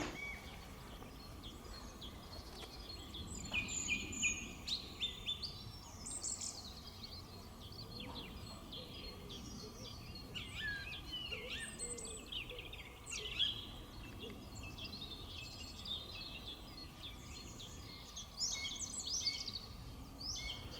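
Small birds chirping and singing, many short sweeping notes coming and going throughout, over a quiet outdoor background with a faint steady hum.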